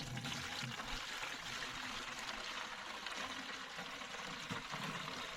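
Water pouring in a steady stream from a watering can's spout into the narrow neck of a plastic canister.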